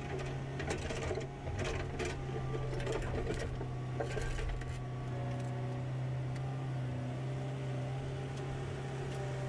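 Cat 312CL excavator's diesel engine running steadily with a low hum. Scattered knocks and clatters come over the first four or five seconds as concrete rubble is handled.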